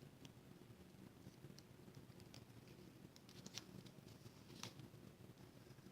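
Near silence with a low room hum and scattered faint clicks and taps, the clearest two about three and a half and four and a half seconds in: small cardstock circles being handled and pressed together on the work surface.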